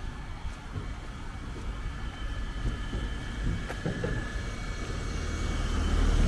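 Low rumble of passing road traffic, growing louder near the end as a vehicle draws close.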